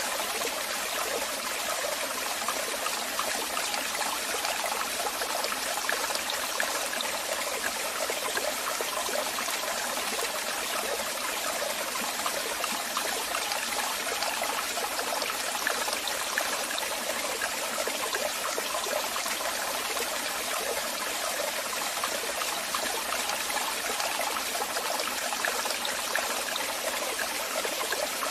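Waterfall: falling water splashing steadily, an even hiss with a fine bubbling flicker and no pauses.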